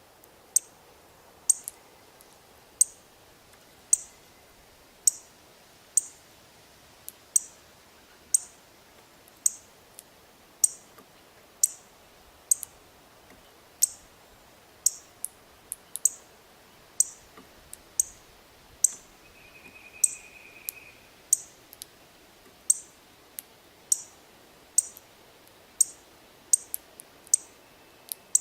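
Sharp, high chip notes repeated about once a second at slightly uneven spacing, like a songbird's alarm or contact chips, with a brief thin whistled note about two-thirds of the way through.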